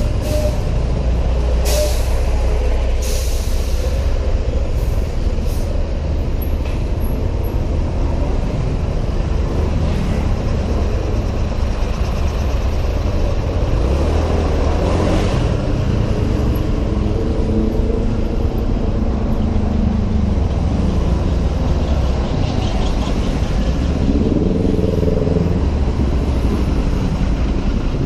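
Helmet-camera ride on a Honda PCX 125 scooter through city traffic: a steady low rumble of wind on the microphone over engine and traffic noise. There are several short sharp hisses in the first few seconds, and engine tones rise above the rumble now and then later on.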